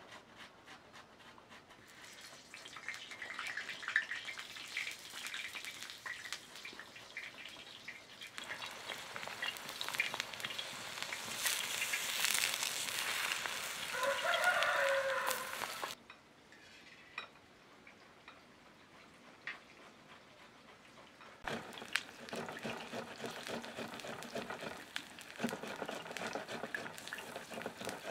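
Eggplant slices sizzling and crackling in hot oil in a shallow iron pan over a wood fire, the sizzle loudest around the middle, dropping away about sixteen seconds in and coming back later. A chicken calls once about fourteen seconds in.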